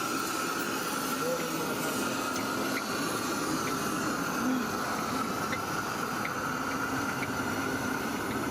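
A 7¼-inch-gauge miniature railway train running: a steady rushing noise with a steady high whine held throughout and faint, irregular light clicks.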